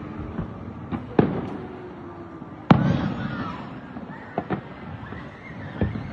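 Fireworks display: separate sharp bangs with echoing tails. The loudest comes about two and a half seconds in, with smaller pops before and after it.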